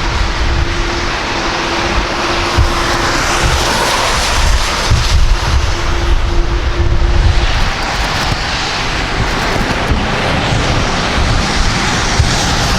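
Airliner's engines running as it passes, a broad engine noise with a steady hum that ends about seven seconds in, over wind rumbling on the microphone.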